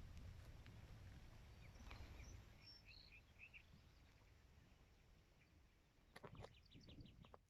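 Faint small-bird chirps: a quick run of short high notes about two seconds in, then a short burst of clicks and chirps near the end, over a low rumble that fades.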